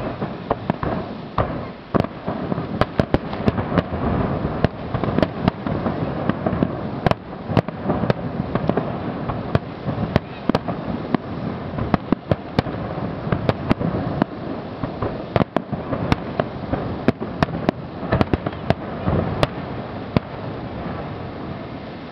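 Fireworks barrage: aerial shells bursting in quick succession, sharp bangs often several a second over a continuous background of overlapping booms and crackle.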